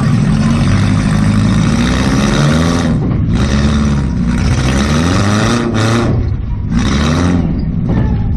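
Demolition derby car's engine, heard from inside its stripped cabin, revving up and down repeatedly as the driver gets on and off the throttle. The pitch climbs and drops several times, with brief let-offs about three and six seconds in.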